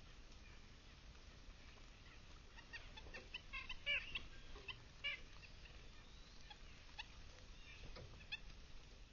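Faint chirps of small songbirds: a quick cluster of short calls about three to five seconds in, and a few single chirps near the end.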